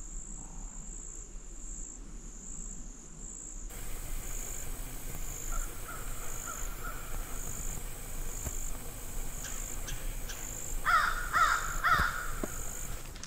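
A bird calls three times near the end, each call rising then falling, over insects chirping in a steady high pulse about one and a half times a second.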